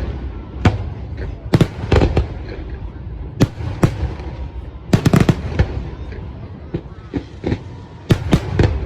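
Fireworks exploding overhead: irregular sharp bangs, some single and some in quick clusters of several, over a continuous low rumble of further bursts.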